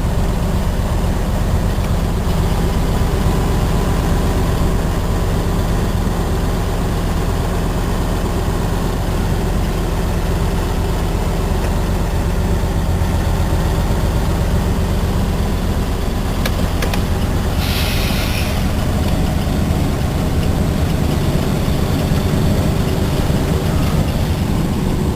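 Cement tanker truck's diesel engine running steadily with a low, even drone. About two-thirds of the way through there is a short burst of hiss lasting about a second.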